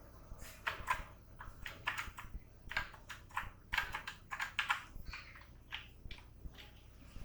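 Typing on a computer keyboard: irregular key clicks, a few a second, with brief pauses.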